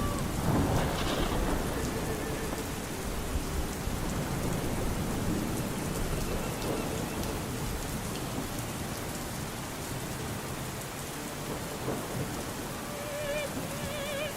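Steady rain, with a rumble of thunder in the first couple of seconds. Near the end a faint operatic voice comes in on a note with a wide vibrato.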